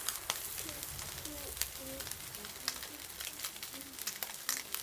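Campfire crackling: sharp irregular pops and snaps over a steady sizzling hiss.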